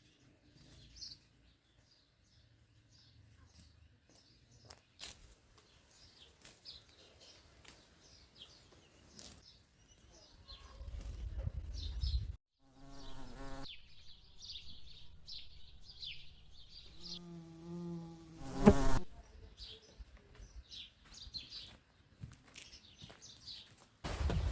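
Insects buzzing close by in two wavering passes, among small birds chirping. A sharp knock comes about two-thirds of the way in.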